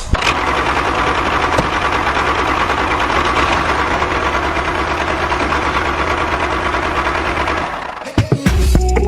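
A small electric motor running with a steady, fast buzz, stopping about eight seconds in. Music comes back in near the end.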